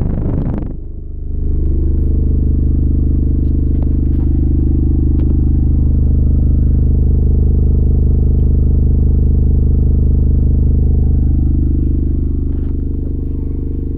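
8-inch CT Sounds Meso car subwoofer playing a loud, steady deep bass drone. The drone holds unbroken after a short dip about a second in.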